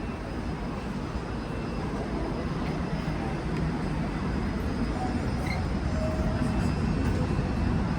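Train rumbling at a station platform, the rumble building slowly, typical of a train drawing in.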